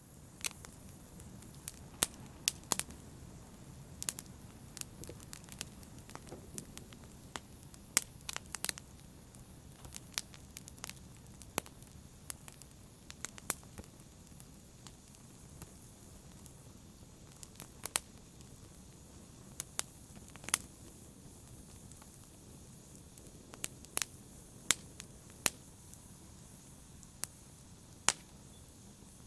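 Wood fire burning in a fireplace: a steady low background with sharp, irregular crackles and pops, several louder snaps scattered through.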